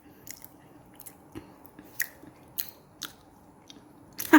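Faint chewing of a bite of spicy beef mooncake, with scattered small clicks of the mouth.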